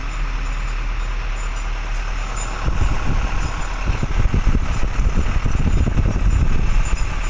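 Truck engine running steadily. A little under three seconds in, a louder, rougher low rumble sets in and continues.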